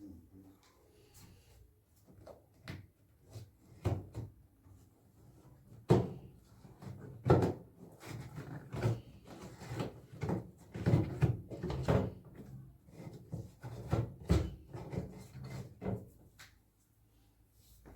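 Irregular knocks and clunks of parts and tools being handled during work on a washing machine, several loud ones in the middle of the stretch with lighter clatter between.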